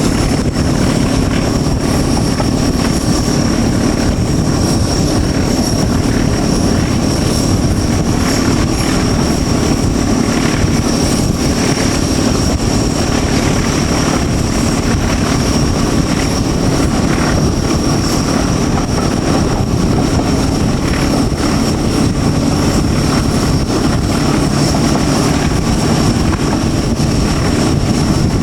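Diesel locomotive running steadily under load while hauling a train, heard from the train behind it, with a low engine hum, a steady high whine and a constant rumble of running gear.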